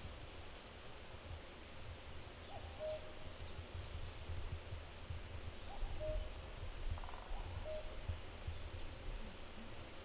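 Faint birds calling outdoors: a short, low two-note call (a higher note then a lower one) repeated every few seconds, with a thin high whistle recurring about as often, over a low wind rumble.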